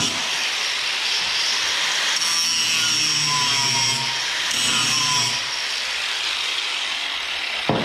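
Steady scraping, grinding noise of a tool working steel, with one sharp knock near the end.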